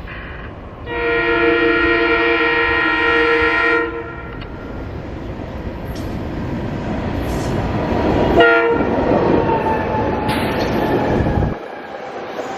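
SEPTA commuter train sounding a chime horn for about three seconds, then rumbling past on the rails with a second, short horn blast about eight and a half seconds in. The rumble stops abruptly near the end.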